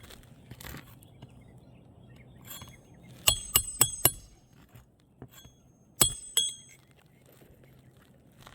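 Roofer's hatchet driving roofing nails into a shingle course, sharp metallic strikes with a bright ring: a quick run of about four blows a little past the middle, then two more about two seconds later.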